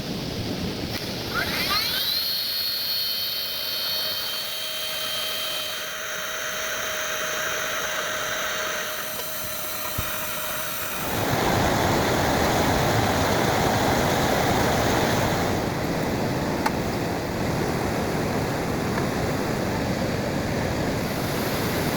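Heavy rain hissing steadily. In the first half a high whine rises quickly and then holds a steady pitch for several seconds. About halfway through the whine stops and the rain noise gets louder and fuller.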